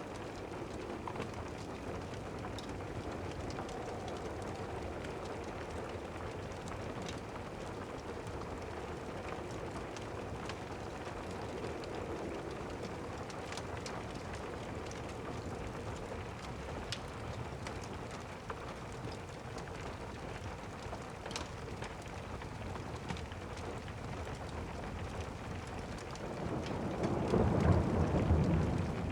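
Steady rain with scattered faint crackles from a fireplace fire. A low rumble of thunder swells near the end.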